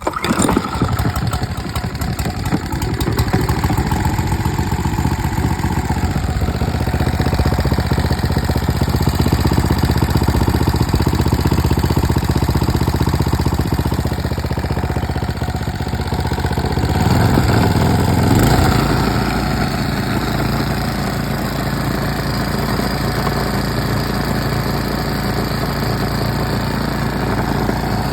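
Mitsubishi GM182L 6 hp single-cylinder gasoline engine starting suddenly and running steadily. About seventeen seconds in its note swells briefly, then settles into an even run.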